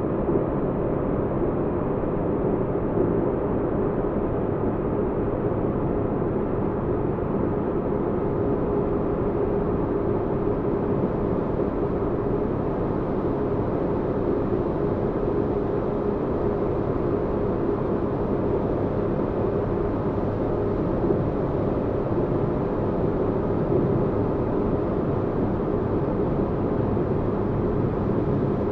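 Steady low rumbling spaceship-engine drone with a faint steady hum; unchanging throughout.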